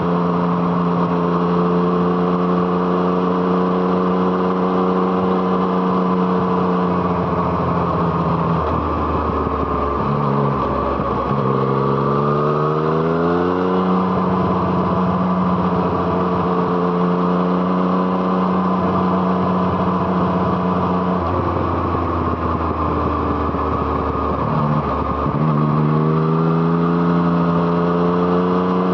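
Yamaha MT-09's inline three-cylinder engine through an Arrow Thunder aftermarket exhaust, heard from the moving bike. It runs at a steady cruise, and its pitch drops as the bike slows a little before halfway, then climbs again as it accelerates. The same drop and rising pull repeat near the end.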